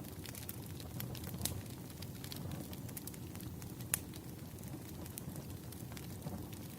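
Wood fire burning, with a steady low rumble and many sharp, irregular crackles and pops; the loudest pop comes about four seconds in.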